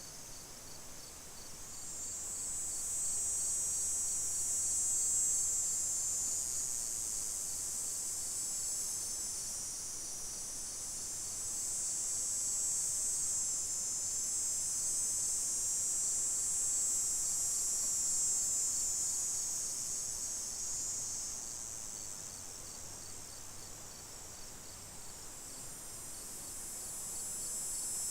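A chorus of insects chirring, high-pitched and continuous, swelling and fading in slow waves lasting several seconds.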